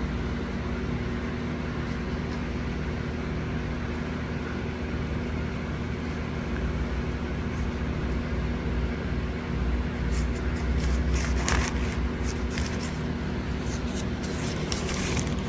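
Steady low hum of a vehicle engine running, heard from inside. From about ten seconds in, paper food wrapping crinkles and rustles in short bursts over it.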